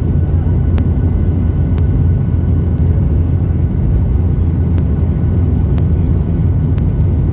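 Steady deep rumble of a Boeing 737-800's CFM56 engines and airflow, heard inside the passenger cabin, with a few faint light ticks about once a second.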